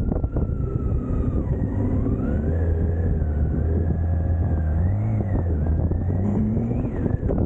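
BMW K1600 GTL's inline-six engine running under way, its pitch slowly rising and falling with the throttle, highest about five seconds in.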